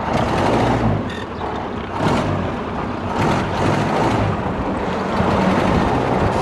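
Ford Model A four-cylinder engine, a freshly installed rebuilt motor, running under way as the open speedster is driven, its pitch shifting a little with a few brief louder swells.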